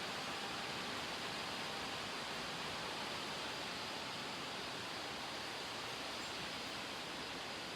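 Severe thunderstorm wind rushing through trees and leaves, a steady, even hiss with no lulls.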